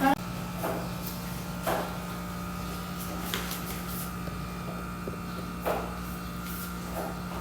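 Several short clicks and taps from buttons being pressed on a mini capsule coffee machine that will not yet start brewing, over a steady low hum.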